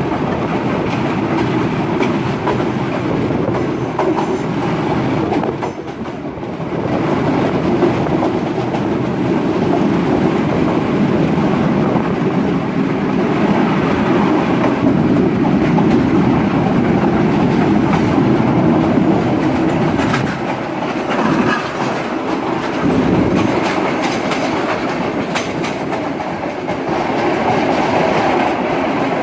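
Moving express train running along the line: a steady loud rumble of wheels on rails, dipping briefly about six seconds in.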